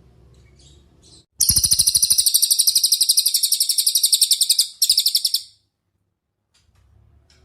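Cililin song: after about a second of quiet, a loud, rapid trill of fast, evenly repeated high notes lasts about three seconds. It breaks off briefly, then comes again in a shorter burst.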